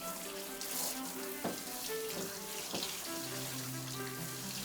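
Water running from a bathtub faucet, a steady hiss, with background music of held notes.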